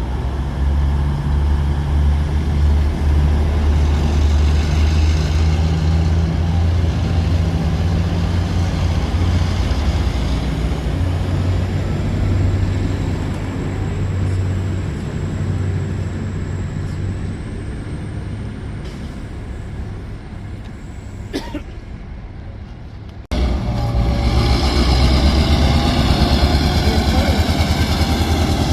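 Locomotive engine running with a steady low hum that slowly fades, with a single click a little before the sound cuts off suddenly about 23 seconds in, after which a louder engine runs on.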